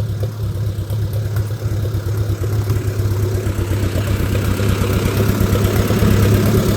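An engine running steadily at a low, even hum, growing a little louder over the last few seconds.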